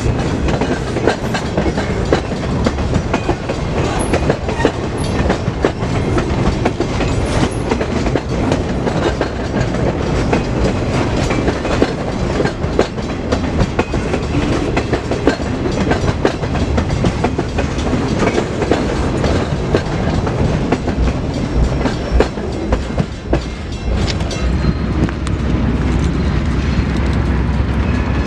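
Freight train cars rolling past, their wheels clicking steadily over the rail joints, with a deeper rumble growing near the end.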